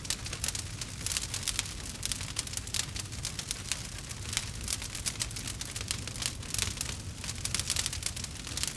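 Wood fire crackling with many quick, irregular pops, over a steady patter of rain and a low, even rumble underneath.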